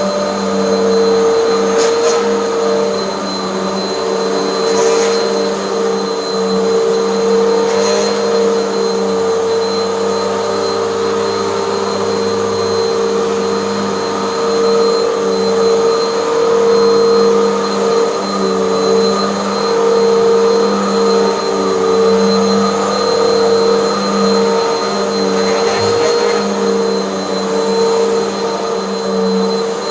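Hoover bagless vacuum cleaner running steadily, its motor hum holding even with a thin high whine over it. A few faint clicks come through now and then.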